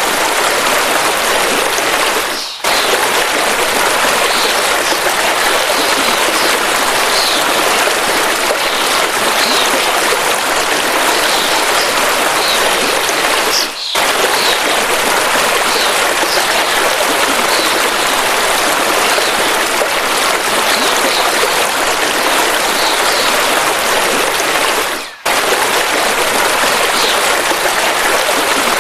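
Steady rushing of a river, with faint short bird chirps above it. The sound drops out for a moment three times, about eleven seconds apart.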